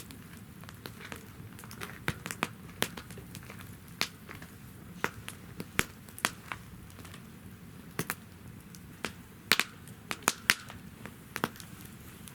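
Wood fire burning in a fire stand, crackling and popping irregularly: sharp snaps come about once or twice a second over a low steady hiss of the flames.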